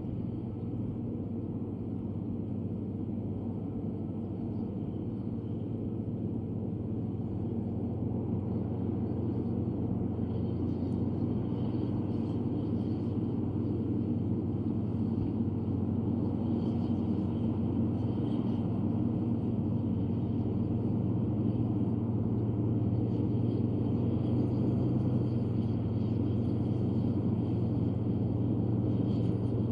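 Komatsu D155A crawler bulldozer's diesel engine running steadily under work, gradually growing louder. Faint intermittent rattling and clanking join from about ten seconds in.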